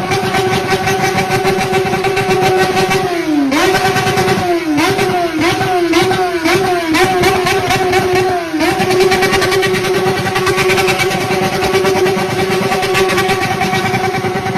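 Yamaha XJ6's inline-four engine held at high revs with a steady screaming exhaust note. About three seconds in, the throttle is snapped shut and reopened some six times in quick succession, the pitch dropping and shooting back up each time, before the revs hold steady again.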